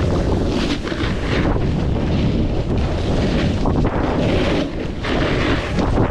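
Wind buffeting the microphone during a fast snowboard run, with the board hissing and scraping over snow, the hiss swelling and fading from turn to turn.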